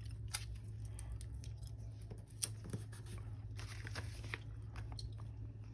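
Stickers being peeled off a sticker sheet and pressed onto paper: sparse small ticks and rustles over a steady low hum.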